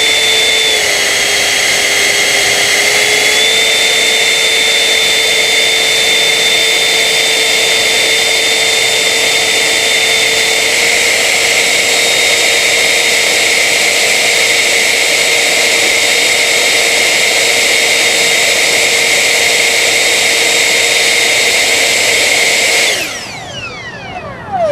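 Battery-powered Tornado 75 ducted-fan jet unit running at steady high speed with a loud, constant whine. The pitch dips briefly and recovers early on. About 23 seconds in, the throttle is cut and the whine spools down, falling quickly in pitch as the fan winds down at the end of the 3-minute run.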